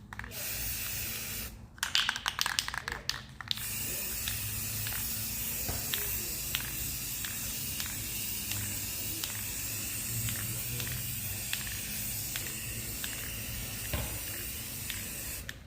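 Aerosol spray can of primer spraying: a few short bursts in the first seconds, then a long steady hiss from about four seconds in until near the end.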